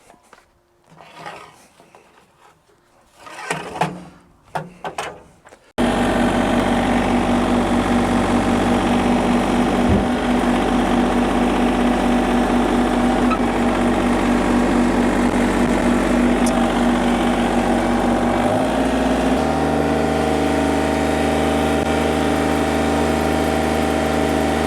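A few faint knocks in the first seconds, then the diesel engine of a John Deere 955 compact tractor running steadily, starting abruptly about six seconds in. Near three-quarters of the way through, its note shifts lower.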